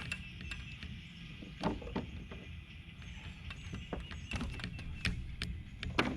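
Scattered knocks and clunks on a boat, a handful of sharp strikes, the loudest about a second and a half in and near the end, over a steady low rumble.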